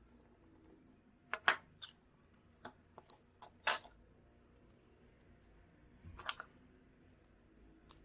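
Sharp, irregular clicks and light clinks of small hard objects, such as tools or small phone parts, being handled and set down during phone repair work. They bunch together in the first half, and a few single ones follow.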